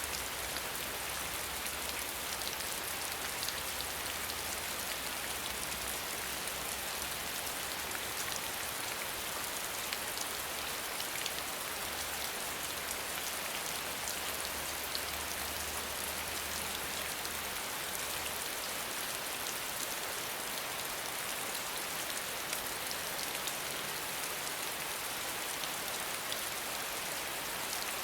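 Steady rain falling: a dense, even hiss with scattered drop ticks.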